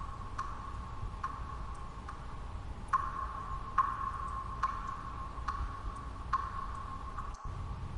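Water drops falling one at a time at an even pace, a bit faster than one a second, each a short ringing plink. Under them runs a steady, low white-noise hiss.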